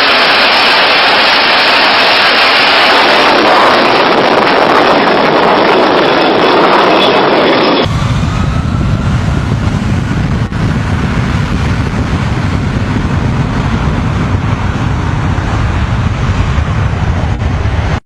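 Loud steady noise of a plane in flight, engine and rushing air. About eight seconds in it changes abruptly to a deeper rumble.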